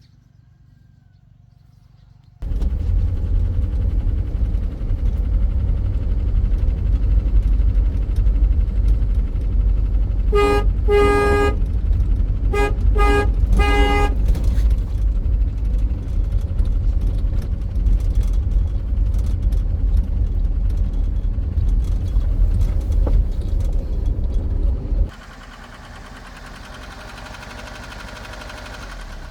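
A motor vehicle's engine running close up, a heavy low rumble that starts suddenly and cuts off abruptly near the end. About halfway through, its horn sounds in several short honks.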